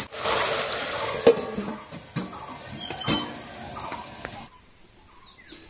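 Diced potatoes sizzling as they fry in hot mustard oil in a kadai, with a metal spatula stirring and a few sharp metal clanks as the pan is worked and a steel lid goes on. The sizzle fades, and about four and a half seconds in it cuts off to a much quieter background.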